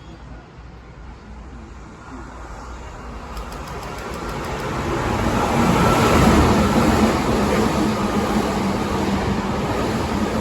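Hankyu 3300-series electric train approaching and running along the platform, its rumble building to a peak about six seconds in and staying loud, with a steady hum underneath.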